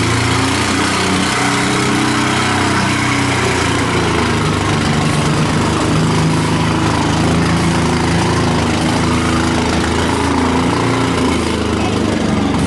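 Toyota 4Runner tough truck's engine running hard and steadily, its pitch wavering up and down as the truck struggles, stuck in the mud.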